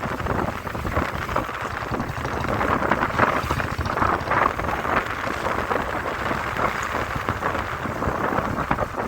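Wind rushing and buffeting over the microphone of a moving motorcycle, with the bike running underneath as it rides along.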